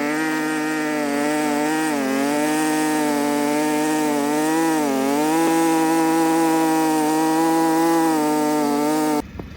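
A motor engine running steadily at high speed, its pitch dipping briefly twice as if under load, then cutting off suddenly near the end.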